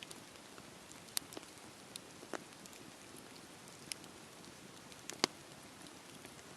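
Campfire burning: a steady low rush with scattered sharp pops and snaps of the wood, the loudest snap about five seconds in.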